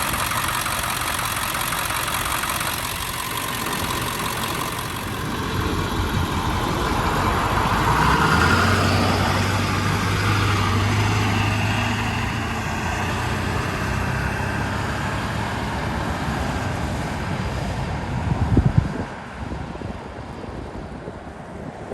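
Ford 7.3L Power Stroke turbodiesel V8 running, with a steady low hum that grows louder through the middle. A sharp knock comes near the end, after which the sound drops quieter.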